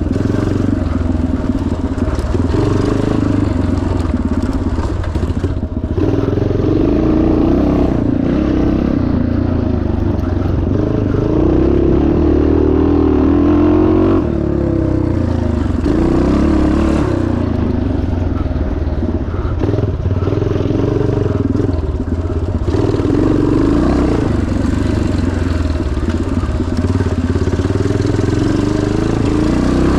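1977 Yamaha TT500's four-stroke single-cylinder engine running hard off-road, its pitch rising and falling with the throttle and dropping back sharply three times as the rider rolls off or shifts.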